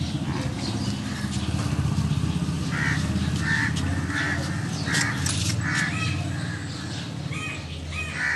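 A bird calling over and over, about one to two calls a second, starting about three seconds in, over a low steady rumble.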